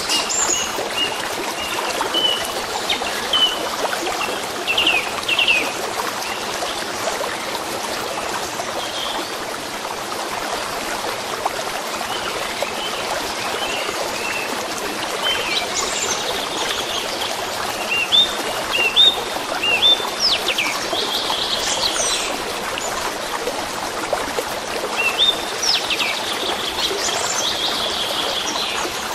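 A stream or brook flowing steadily, with small songbirds chirping over it in short bursts of rising whistles, busiest in the middle and near the end.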